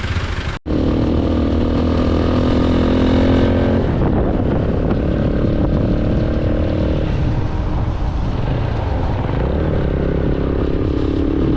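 Motorcycle engine running while riding, its pitch holding steady and then shifting a few times as the revs change. The sound cuts out for an instant just after the start.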